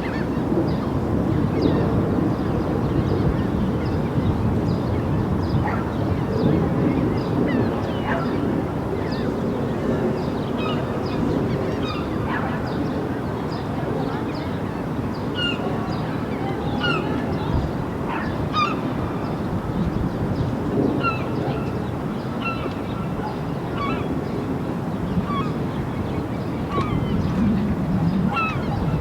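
A large flock of birds calling without pause, many calls overlapping into a steady din, with short high calls scattered throughout.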